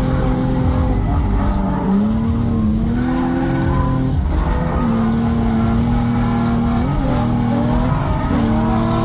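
Infiniti G35's VQ V6 engine held at high revs while drifting, heard from inside the cabin, its pitch holding steady and dipping briefly a few times as the throttle is worked, with tyres skidding.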